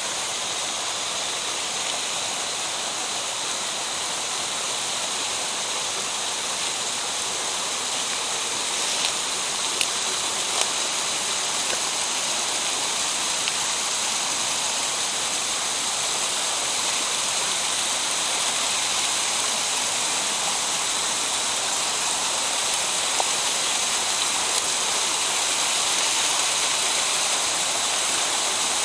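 Mountain stream water rushing steadily through a rocky gorge, growing a little louder toward the end, with a few faint ticks about a third of the way in.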